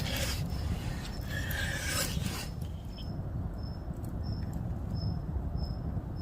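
Two bouts of scraping or rubbing in the first two and a half seconds, then a short, high insect chirp repeating evenly about every two-thirds of a second over a steady low rumble.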